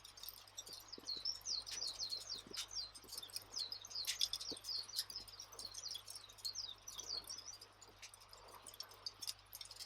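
Campfire ambience: a wood fire crackling with scattered sharp pops, under a dense run of quick, high chirping notes.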